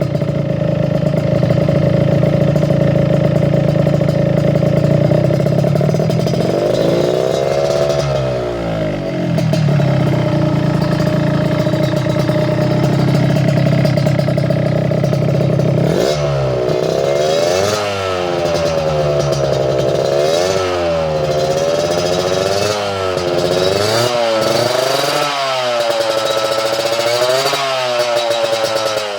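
Yamaha RX-King's two-stroke single-cylinder engine running through an HNR aftermarket exhaust, held steady with a brief drop and rise in revs about seven seconds in. From about sixteen seconds it is revved in quick repeated blips, roughly one a second.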